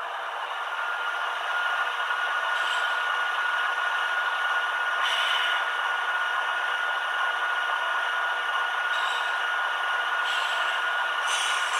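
H0-scale model train rolling on the layout: a steady rattling rush of wheels on track with a thin, steady high whine, growing louder over the first two seconds, with a few brief clicks.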